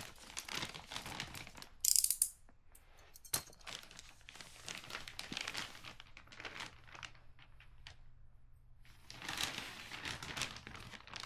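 Packaging crinkling and rustling while a sealed package is unwrapped, with a short loud tear about two seconds in and a sharp click a little over a second later.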